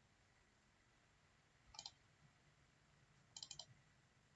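Faint computer mouse clicks: a quick pair a little under two seconds in, then a rapid run of three or four clicks about three and a half seconds in, against near silence.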